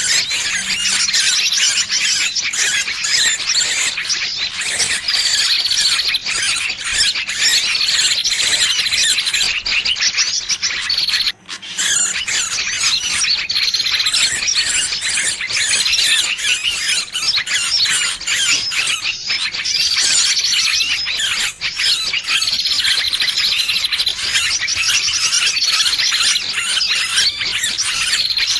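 Small bird in distress, as played on a bird-lure (pikat) track: a dense, unbroken stream of rapid, high-pitched squealing chirps, with falling notes recurring every couple of seconds. It breaks off for an instant about 11 seconds in.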